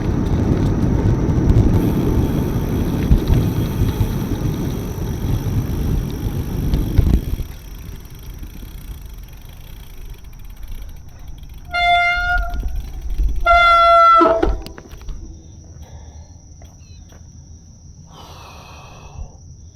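Wind rushing over the microphone while cycling, stopping abruptly about seven seconds in. Then come two loud honks a second apart: a short one, then a longer one that drops in pitch at its end.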